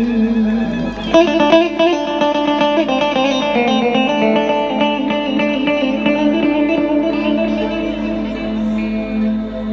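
Instrumental interlude of a Turkish uzun hava: a plucked string instrument plays a quick, ornamented melody over a steady drone, the melody starting about a second in.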